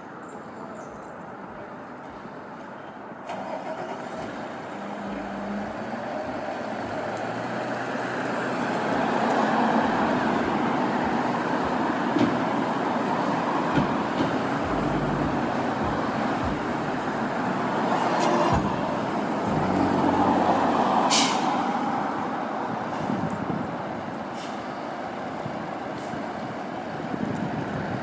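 Fire engine's diesel engine running, getting louder a few seconds in and swelling twice, with one brief sharp hiss about two-thirds of the way through.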